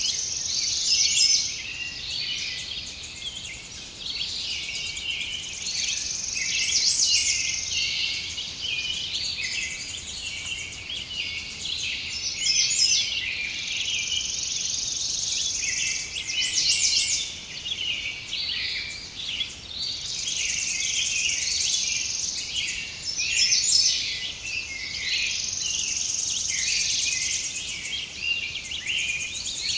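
A forest chorus of many small birds chirping and singing over a high insect trill that swells and fades every few seconds.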